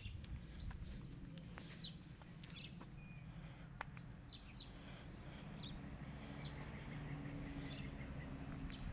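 Quiet outdoor ambience: small birds chirp now and then over a low steady hum, with a few faint clicks.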